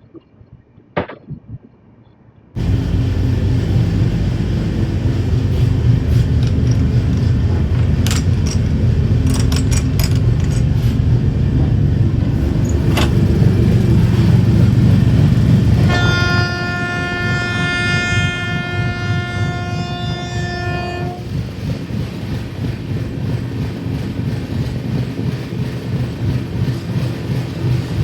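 Train running on the rails with a loud, steady low rumble that starts abruptly a couple of seconds in, with scattered clicks. Partway through, a train horn sounds one long, even blast of about five seconds.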